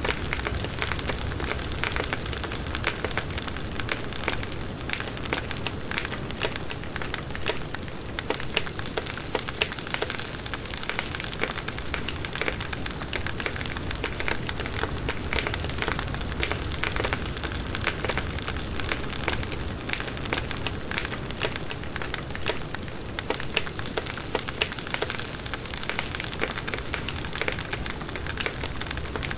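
Firewood burning in a campfire: a steady crackle with many small, sharp pops throughout, over a low rumble of the flames.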